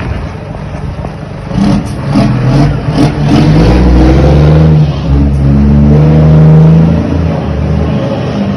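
Scania truck's diesel engine pulling away and accelerating, its pitch and loudness climbing about a second and a half in and dipping briefly at the gear changes. A few short sharp clicks come just after the engine picks up.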